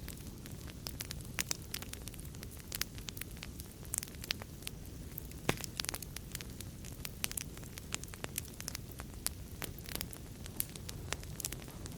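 Wood fire crackling in a fireplace: irregular sharp pops and snaps, several a second, over a steady low rush of flame, with one louder pop about halfway through.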